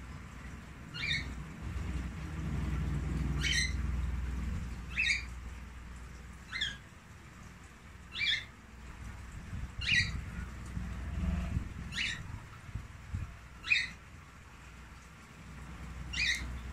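A small bird chirping: short, sharp, high single chirps about every two seconds, nine in all. A low rumble runs underneath, strongest over the first few seconds.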